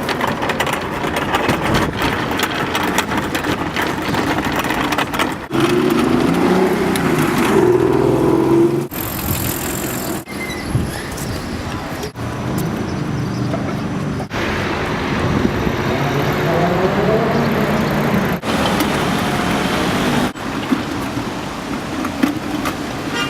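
City street traffic: cars and other vehicles running and passing, with engine notes rising and falling twice, and the sound broken off by several abrupt cuts.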